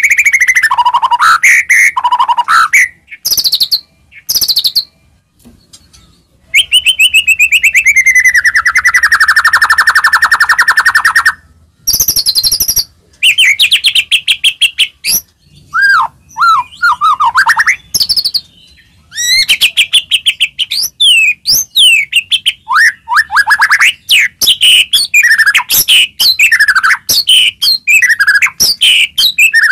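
White-rumped shama (murai batu) singing loudly and with great variety. Its song has sweeping whistled notes, a long buzzing rattle that slides slightly down in pitch, and near the end fast runs of short whistles.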